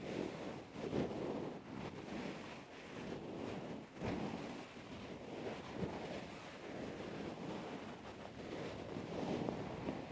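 Close-up swishing, rustling noise that swells and fades slowly several times, with a light click about four seconds in.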